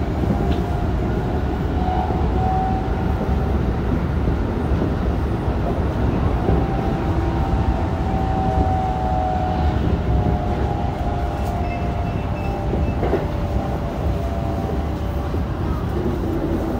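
Running noise heard inside a Keikyu 1000 series electric train car, which has a Toshiba IGBT-VVVF inverter, while the train is under way: a steady, dense rumble of wheels on rail. Faint tones that shift slightly in pitch sit over the rumble.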